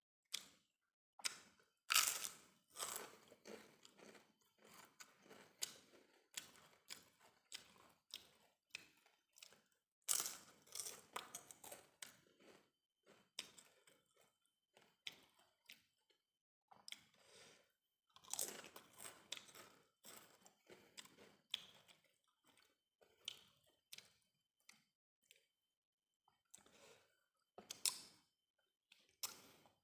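Close-up crunching and chewing of a crisp fried cassava cracker (opak), in several bouts of sharp crackles with quieter chewing between.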